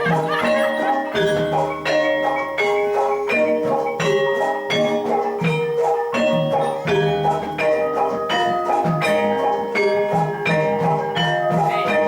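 Javanese gamelan music accompanying jathilan: tuned metal keys and gongs struck with mallets, ringing notes played in a steady, even pulse.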